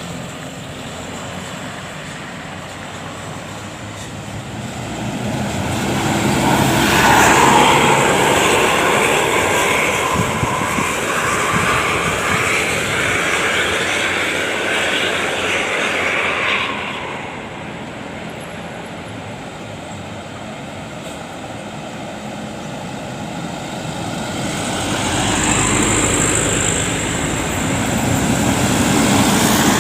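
Heavy road vehicles (buses and trucks) passing, engines running. About a quarter of the way in, a loud stretch with steady high tones swells up and cuts off sharply after about ten seconds. Another vehicle swells up near the end.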